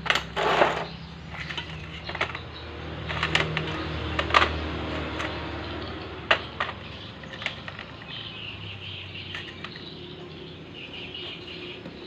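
Scattered sharp clicks and knocks of hand tools and metal engine parts being handled during reassembly of a ketinting longtail boat engine, busiest in the first half.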